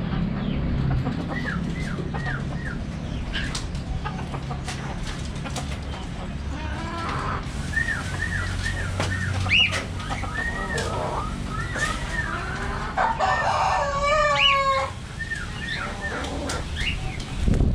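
Pet budgerigar chirping in runs of short, quick arched notes, with a louder, longer call with several overtones about fourteen seconds in.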